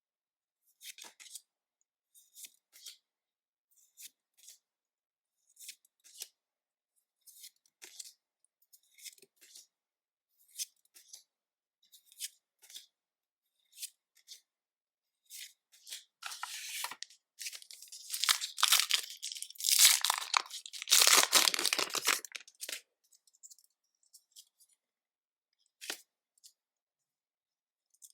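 Scattered light taps and crinkles of packaging being handled, then, about two-thirds of the way through, several seconds of loud tearing as the wrapping of a Pokémon card booster bundle is ripped open.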